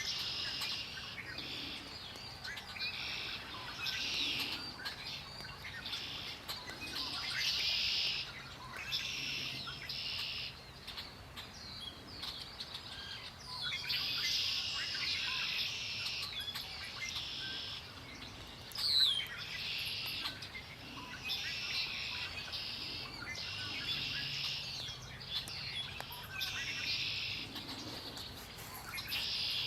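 Wild songbirds singing, high phrase after phrase, each a second or two long with short gaps between. About two-thirds through, one louder, sharp down-slurred note stands out.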